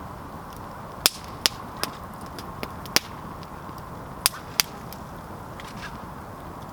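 Campfire crackling: about seven sharp pops and cracks of burning wood, the loudest about a second and three seconds in, over a steady hiss.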